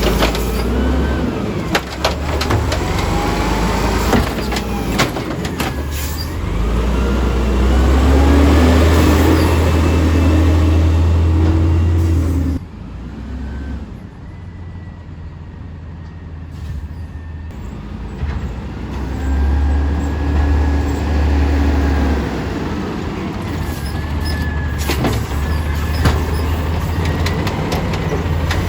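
Small automated side-loader garbage truck working a pickup: the engine revs up to drive the hydraulic arm, with a faint whine and sharp clanks. The revs drop off sharply about halfway through, then rise again for another cycle.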